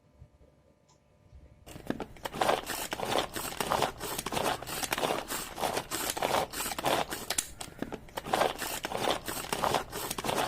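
Pull-cord manual vegetable chopper being pulled over and over, its blades spinning through onion and tomato pieces in the bowl: a quick run of noisy strokes, about two a second, starting about two seconds in.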